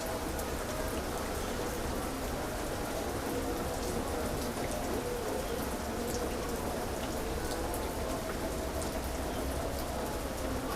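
Heavy rain falling steadily, with many separate drops ticking against a constant hiss.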